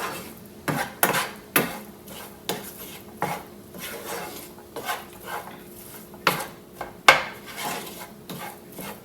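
A cooking utensil stirring browned ground beef, onion and chili seasoning in a pan, knocking and scraping against the pan at irregular intervals, over a faint sizzle.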